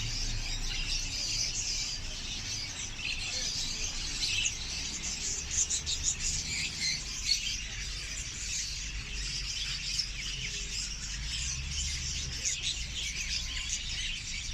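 Many caged pet birds chirping and chattering at once, a dense continuous twittering of small parrots such as lovebirds and budgerigars.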